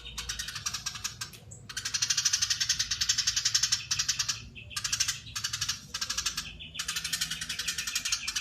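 Eurasian tree sparrow giving its long, dense chattering call (crecetan): rapid dry pulses in long runs, broken by four short pauses.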